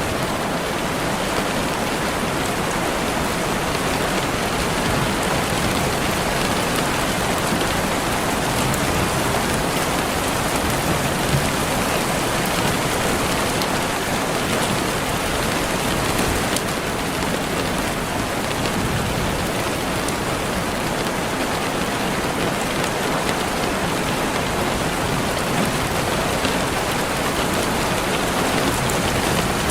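Steady rainfall: a dense, even hiss of raindrops falling on a surface.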